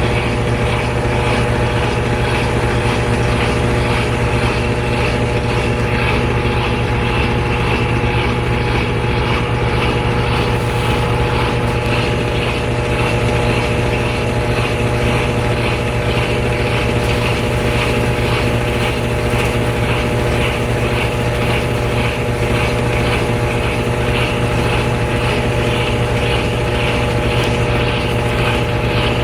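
Washer of a GE Spacemaker GUD24ESSM1WW laundry center in its final spin: the drum spinning at speed with a steady motor hum and whine.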